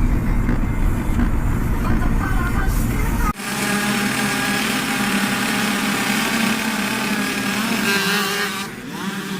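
Yamaha YZ65's small two-stroke single-cylinder engine running at a steady high pitch, its note dropping away near the end. It is preceded by about three seconds of low rumbling noise that cuts off abruptly.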